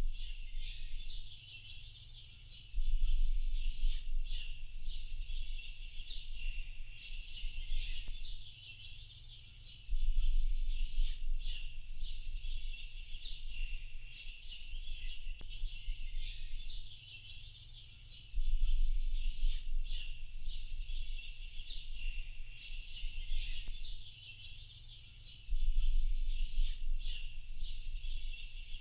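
Dense chorus of many small birds chirping and twittering without a break. A low rumble comes in abruptly every seven or eight seconds, lasts a couple of seconds, and is the loudest part.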